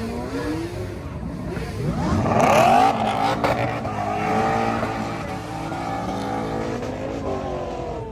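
Car engine revving: the pitch climbs sharply about two seconds in, is held high and steady through the middle, then drops near the end.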